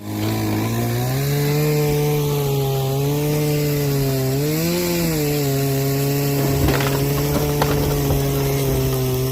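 Heavy machinery engine running steadily, its pitch rising and falling a little as the load changes, with a few sharp cracks about seven seconds in.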